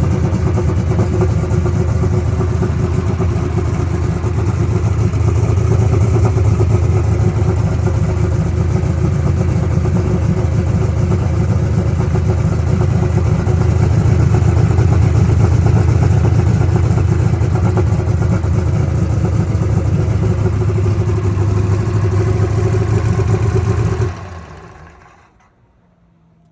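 Massey Ferguson Super Stock Open pulling tractor's engine running steadily while warming up, with small rises and dips in level but no big revs. The sound dies away near the end.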